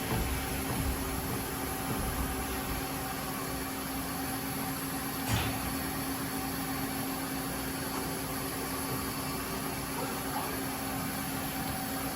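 Mazak Slant Turn 60NRB CNC lathe under power: a steady machine hum with a held low tone, and one sharp click about five seconds in.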